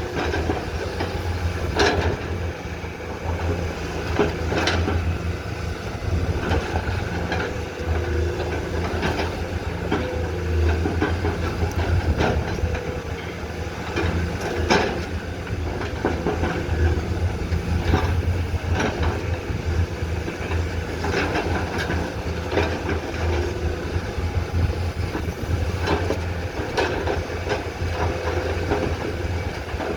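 Komatsu PC210-10M0 hydraulic excavator's diesel engine running steadily under working load, with scattered clanks and knocks every few seconds from the bucket and machine at work.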